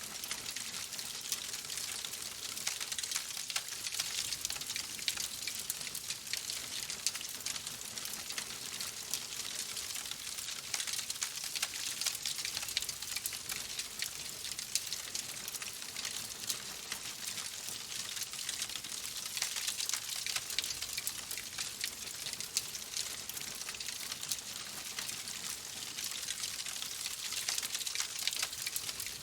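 Wood fire crackling steadily: a dense stream of small pops and snaps over a soft hiss.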